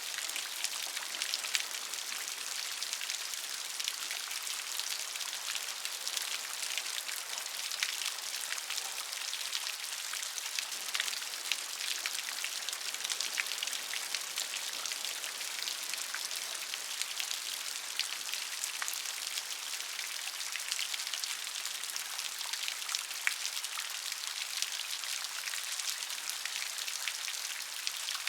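Steady gentle rain: an even hiss of rainfall with many small, close drop ticks.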